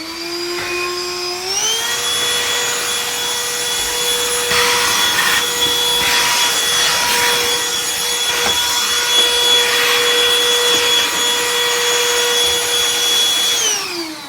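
BLACK+DECKER Dustbuster (HHVK415B01) cordless handheld vacuum switching on, its motor whine rising and then stepping up to a higher pitch about a second and a half in. It runs steadily while sucking up torn toy stuffing, with stretches of rushing noise, then winds down as it is switched off near the end.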